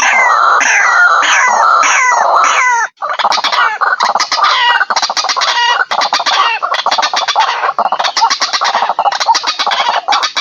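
White-breasted waterhen (ruak-ruak) calls played as a bird-lure recording: repeated falling calls, two or three a second, then after a brief break about three seconds in, a denser run of rapid, overlapping chattering calls.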